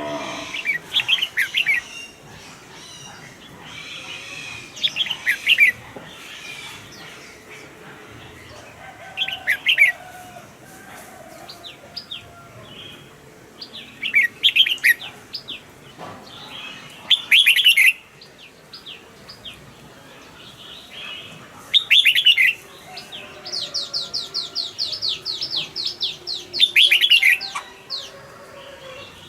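Red-whiskered bulbul singing short, quick, bright phrases every few seconds, with a fast run of high repeated notes near the end.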